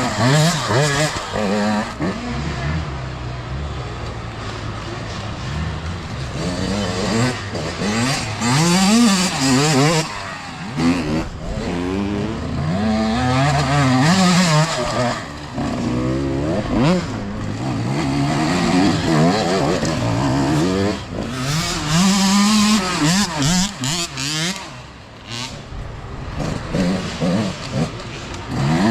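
Several youth dirt bikes racing past, their engines revving up and down over and over with overlapping rising and falling pitches as riders work the throttle and shift.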